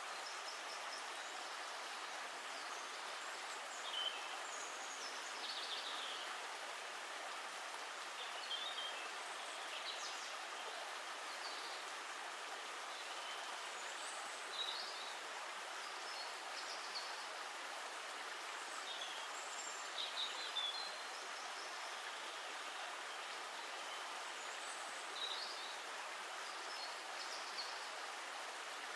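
Steady hiss of running water, with short high bird chirps at irregular intervals.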